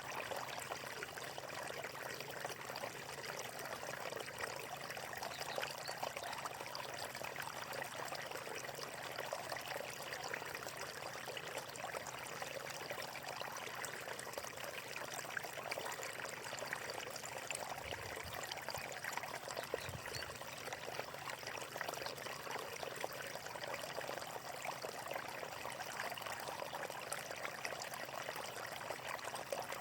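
Water flowing and splashing steadily, like a small stream running over rocks, with a fine babbling crackle throughout.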